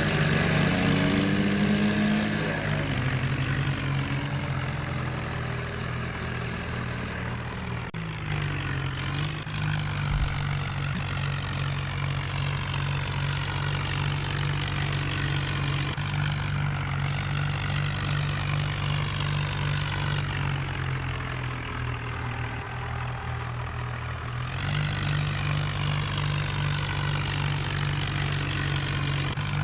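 Tractor diesel engine running steadily, revving up briefly at the start, then holding an even pitch with a couple of sudden shifts in tone.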